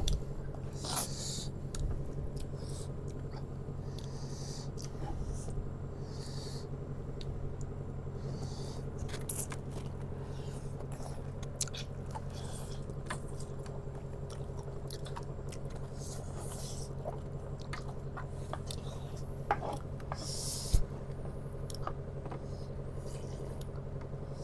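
Chewing and mouth noises of people eating spicy instant noodles, with scattered short hissy sounds and small clicks, over a steady low hum.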